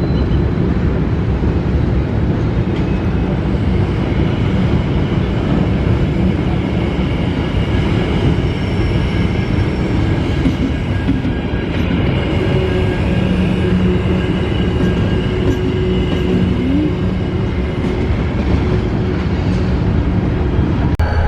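A train rolling past: a steady, loud rumble of wheels on rail, with a few faint thin high tones over it.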